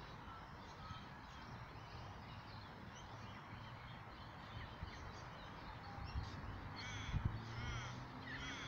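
Faint outdoor background noise, with a bird giving a quick series of short calls near the end.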